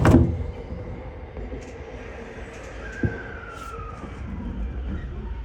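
Commuter electric train running, heard from inside the carriage: a steady rumble with a loud sharp bang right at the start, a small knock about three seconds in, and a faint whine gliding down in pitch partway through.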